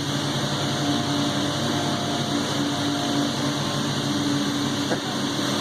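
Steady mechanical hum of the Peak 2 Peak Gondola's terminal drive machinery running, a low droning with several steady pitches and a faint higher whine over it.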